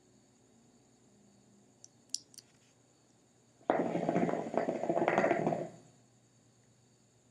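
Hookah water bubbling as smoke is drawn through the base, a dense gurgle lasting about two seconds that starts a little past halfway. A few faint clicks come before it.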